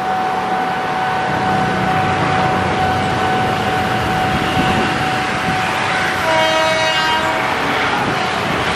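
JR 205-series electric commuter train running past with a continuous rumble of wheels on rail. A steady high tone sounds until about seven seconds in, and a little past six seconds in the train sounds its horn once for about a second.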